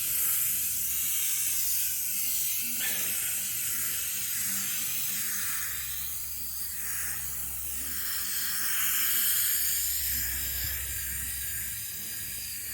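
Aerosol can of aircraft paint stripper spraying in a continuous hiss that swells and fades as it is laid on thick.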